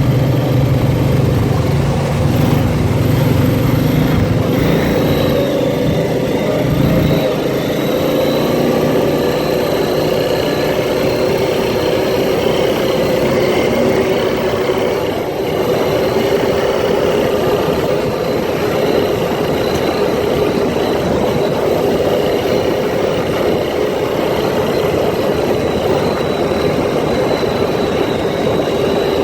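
Can-Am ATV engine running steadily under way, with a strong low rumble for the first several seconds.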